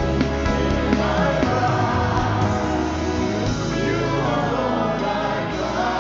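Live gospel worship music: a band holds slow sustained chords while a voice sings gliding, wordless runs over them, about a second in and again around four seconds in.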